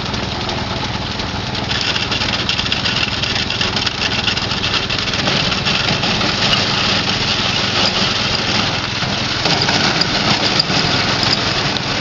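Hit-and-miss stationary gas engine running steadily, getting louder about two seconds in.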